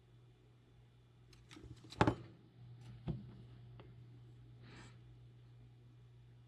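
Small tools tapped and set down on a workbench during micro-soldering: a few light clicks, the loudest about two seconds in and another a second later, then a short rustle, over a steady low hum.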